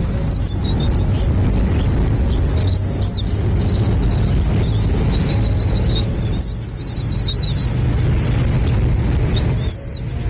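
Small birds giving short, high chirps every second or two, over a loud, steady low rumble.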